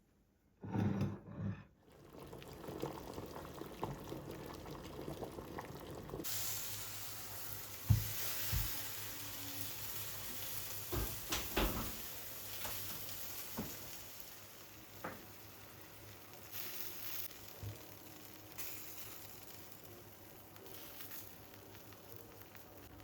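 Food frying in a pan: a steady sizzle that grows louder and brighter about six seconds in, then slowly dies down, with occasional knocks and clicks of a utensil against the pan.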